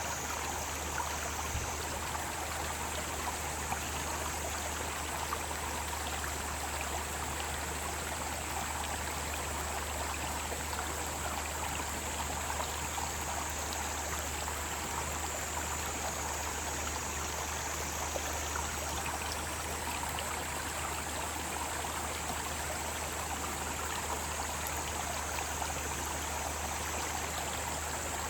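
Mountain stream flowing and splashing over rocks in a steady rush, with a chorus of cicadas droning high above it that swells and eases over several seconds.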